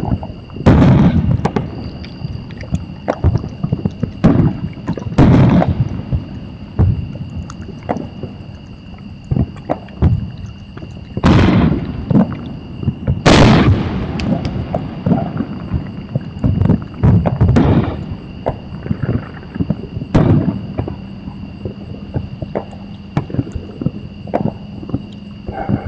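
Fireworks going off: about six loud booming bangs, each trailing off in a rumble, with smaller pops and crackling between them.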